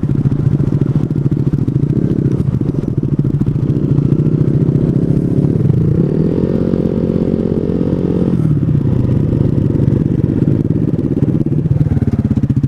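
Small 125cc single-cylinder motorcycle engine running while riding. The revs climb from about four seconds in and hold high for a couple of seconds, then drop back, and pick up again near the end.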